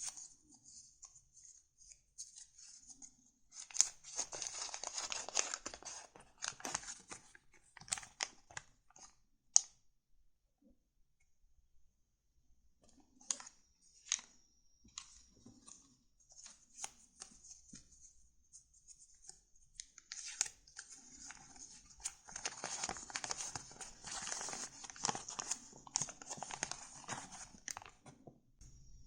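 Paper handled close up, rustling and crinkling in two spells of several seconds, with sharp snaps among them.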